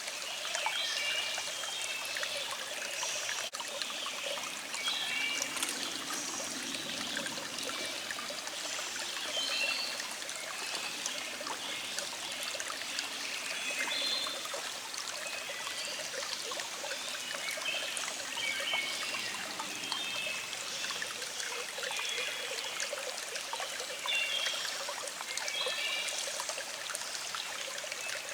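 Small stream flowing and trickling steadily, with birds singing in the background in short, repeated high chirps throughout.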